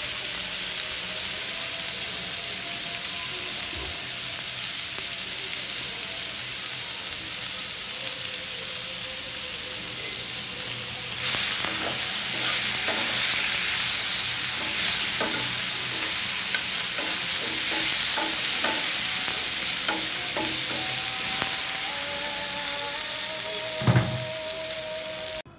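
Peeled whole potatoes frying in hot oil in a pan, a steady sizzle. About eleven seconds in, the sizzle grows louder as they are turned with a metal spatula, which scrapes and clicks against the pan, with a thump near the end.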